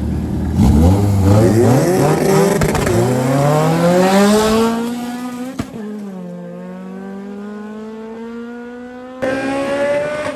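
A turbocharged Honda D-series car launching in a drag race against a BMW 750Li. Engine revving hard up through the gears, the rising note dropping at each shift. The cars then pass and the note falls in pitch and fades, before a louder engine sound returns near the end.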